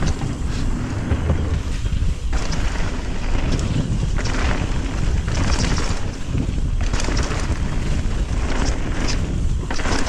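Wind buffeting the microphone over a steady low rumble while riding a mountain bike down a trail, with brief rattling clatters from the bike over rough ground.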